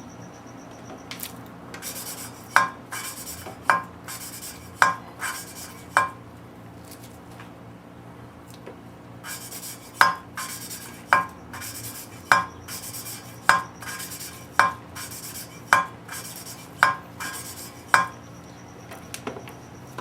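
A valve being lapped into its seat in a Ford 302 cylinder head with lapping compound. The metal valve clicks sharply down onto the seat about once a second, four times, then after a pause eight more times.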